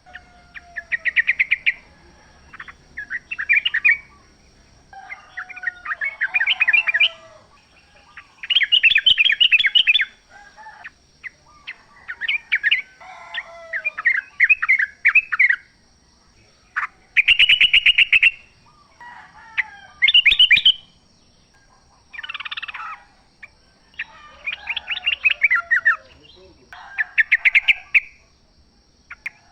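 Yellow-vented bulbuls (trucukan) singing: short, bubbly phrases of rapid chattering notes, each about a second long, repeated again and again with brief pauses and sometimes overlapping.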